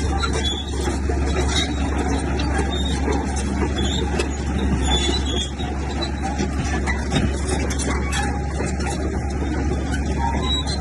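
Heavy diesel earthmoving machinery running steadily with a deep engine rumble, overlaid by continual metallic rattling and clanking.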